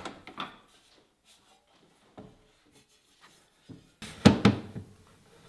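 Wood being handled in a workshop: a few faint taps, then a sharp knock and short clatter about four seconds in, and a lighter knock near the end.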